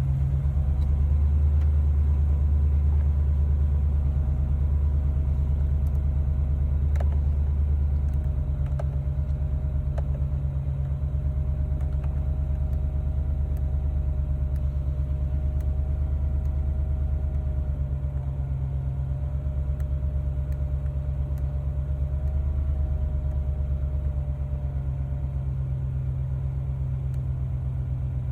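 GMC Yukon 5.3-litre V8 idling steadily with a low rumble, cold-running after a start at −24 degrees.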